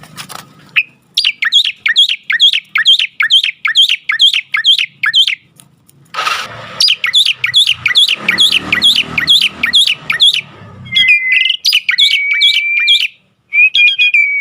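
A jalak (starling) singing: fast runs of repeated sharp chirping notes, about four to five a second, broken by a harsh noisy burst about six seconds in, then long steady whistled notes near the end.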